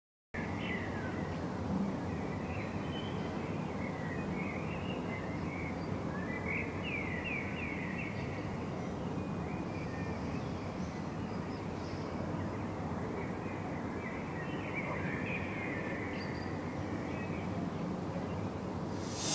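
Outdoor ambience that starts abruptly: a steady low background noise with small birds chirping and twittering on and off. A single sharp knock comes at the very end.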